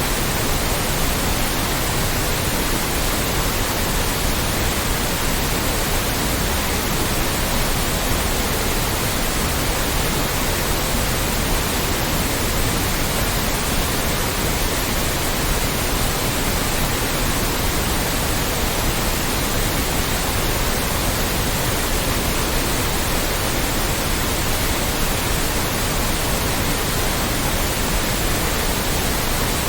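Loud, steady synthetic white noise: an even hiss across all pitches that never changes.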